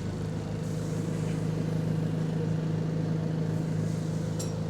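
Bus engine running with a steady drone, heard from inside the passenger saloon while the bus is under way, with a short tick about four and a half seconds in.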